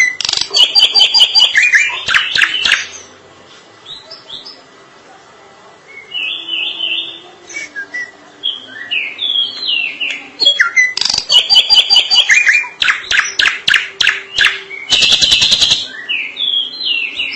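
Drongo singing: clear whistled notes mixed with rapid runs of harsh chattering, in two loud bouts, one at the start and another from about eleven seconds in, with softer whistles between.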